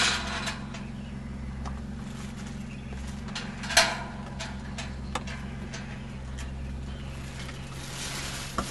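Vehicle engine idling, heard from inside the cabin as a steady low hum, with sharp knocks at the start and about four seconds in and a few lighter clicks.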